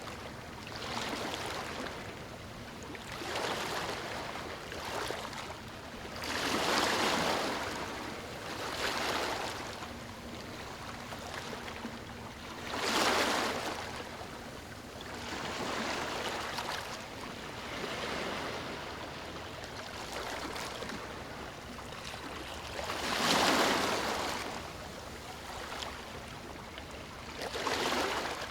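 Ocean waves breaking and washing up a beach, a steady hiss with surges every few seconds, the biggest about a quarter, half and four-fifths of the way through.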